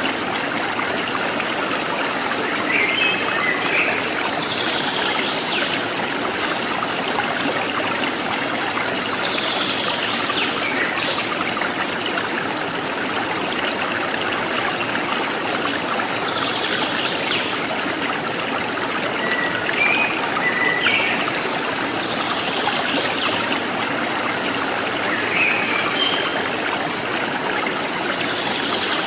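A forest stream trickling and splashing steadily, with wild birds giving short high chirps and whistles every few seconds.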